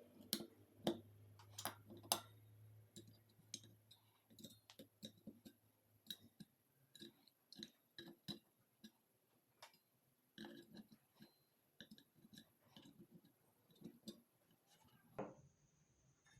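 Scattered light clicks and taps of parts and tools being handled during clutch plate work on a Honda Super Cub C50 engine, irregular and at times several a second, the sharpest about two seconds in.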